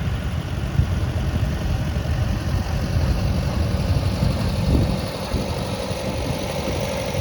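Garden tractor engine running steadily at low speed, with a steady whine joining in about halfway through.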